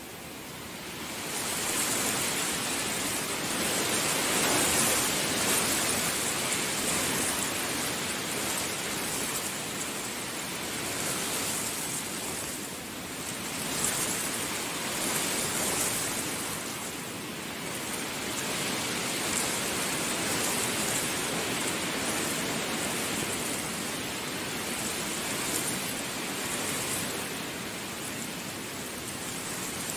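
Heavy rain falling steadily, a dense hiss that grows louder about a second in and swells and eases every few seconds.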